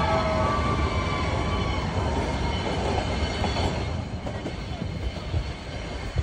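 Nilgiri Mountain Railway toy train carriage rolling along the track, heard at an open window: a steady rumble and clatter of wheels on rails, with a wheel squeal fading out in the first half-second. The noise is loud while the line runs close alongside the rock wall and drops about four seconds in as the train comes out into the open.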